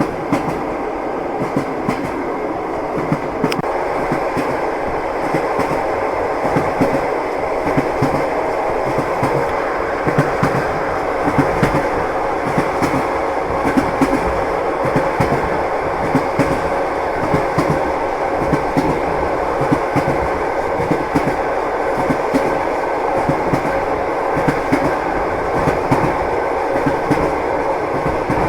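Train wheels clattering over the rails: a steady running rumble with frequent sharp clicks and knocks.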